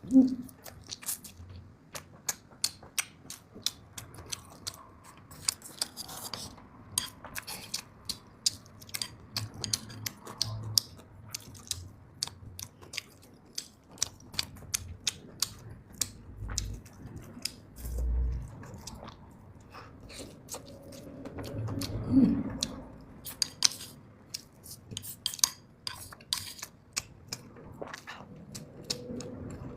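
Close-miked eating: chewing and biting with many sharp, crunchy clicks throughout, plus a few clinks of utensils against dishes.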